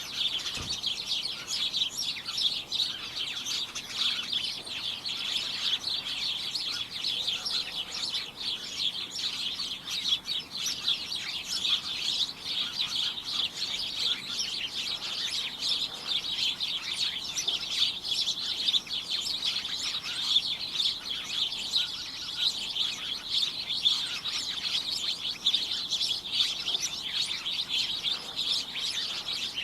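A group of small birds chirping together without pause, many short overlapping chirps making a cacophonous chatter.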